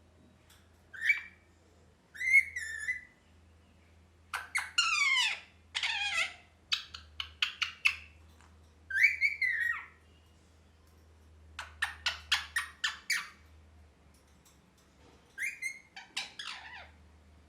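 Pet ringneck parrot calling: bursts of whistles and chirps that rise and fall in pitch, fast runs of short chirps and a few harsh squawks, with short pauses between bursts.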